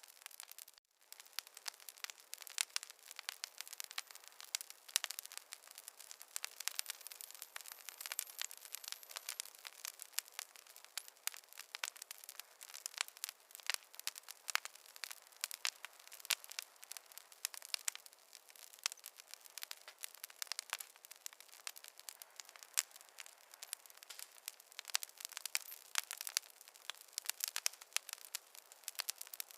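Fireplace fire crackling: a dense run of irregular sharp snaps and pops over a soft hiss, with a brief dropout about a second in.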